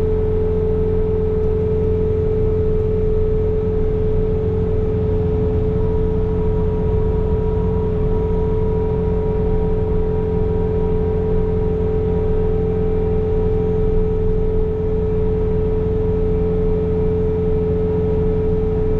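Bobcat T66 compact track loader's diesel engine running at a steady speed, driving its hydraulic snow blower attachment, with a steady high whine over the low engine drone.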